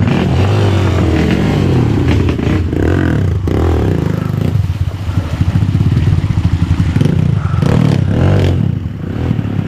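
Off-road trail motorcycle engine revving up and down repeatedly, its pitch rising and falling.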